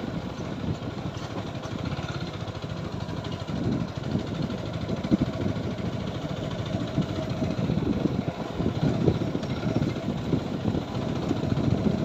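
TVS Apache 4V motorcycle's engine running as it rides along a track, a steady low rumble that surges unevenly.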